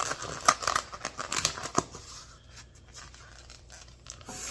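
Food packaging being handled and opened: a quick run of sharp crackles and clicks over the first two seconds, then quieter, scattered clicks.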